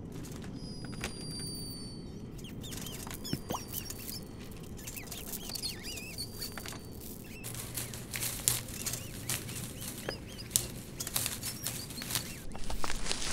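Sound-designed ambience: a steady low background with scattered short, high squeaks and chirps, then from about halfway a dense run of small clicks and rustles. A louder low rumble rises near the end.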